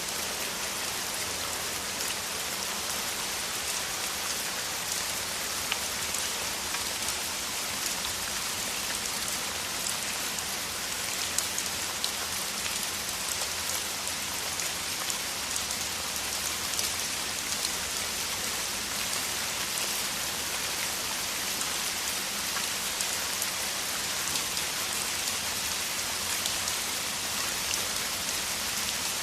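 Steady downpour of rain: a dense, even hiss with many fine drop taps, unchanging throughout.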